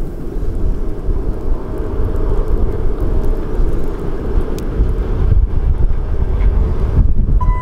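Low, steady rumble of an approaching passenger train hauled by an electric locomotive, mixed with wind buffeting the microphone. Right at the very end, a single steady high horn note starts to sound.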